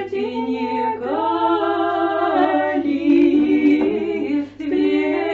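Three women singing an old Russian folk song a cappella in close harmony, holding long, slowly gliding notes. The singing dips briefly for a breath about four and a half seconds in.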